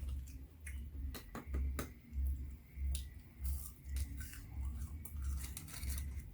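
A person chewing close to the microphone, with sharp clicks and crunches over a steady chewing rhythm of a little under two chews a second, as she eats Mexican street corn.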